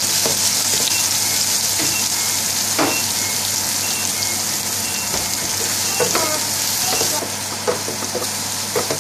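Sliced onion and grated garlic sizzling in ghee in a metal frying pan, with a wooden spoon scraping and knocking against the pan as it stirs them. The sizzle drops slightly about seven seconds in.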